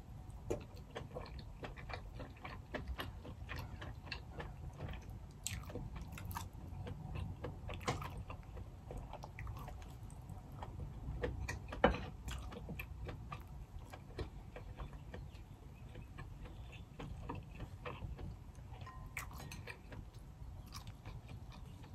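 A person chewing and biting king crab meat, with many small wet mouth clicks and smacks; one sharper click about twelve seconds in.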